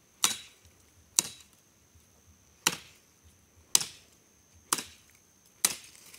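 Wood being chopped: six sharp blows, roughly one a second, each with a short ringing decay, over a faint steady high tone.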